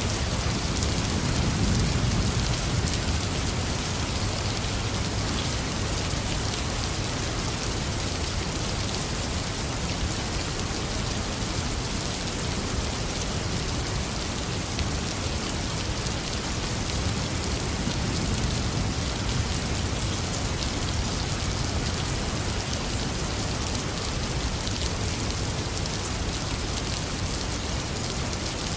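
Heavy rain pouring steadily, a dense hiss of drops on surfaces. Low rumbles of thunder swell beneath it about two seconds in and again about two-thirds of the way through.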